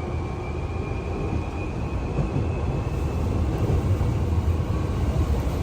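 Hankyu electric train running alongside the platform: a low rumble with a faint high whine slowly rising in pitch, growing a little louder about two seconds in.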